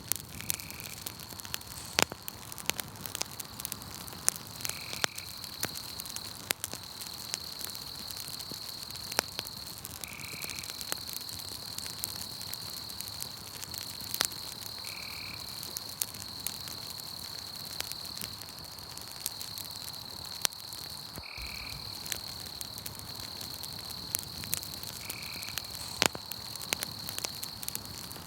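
Campfire crackling, with scattered sharp pops, over a steady high trill of night insects and a short call that repeats about every five seconds.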